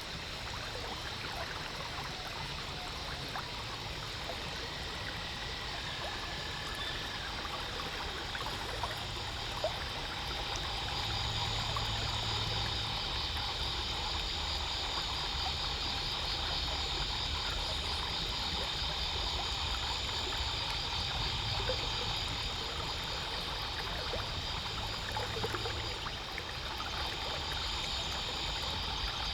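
Water rushing and trickling along the hull of a slowly cruising boat, over a low steady motor hum. About a third of the way in, a higher, finely pulsing hiss joins and stays.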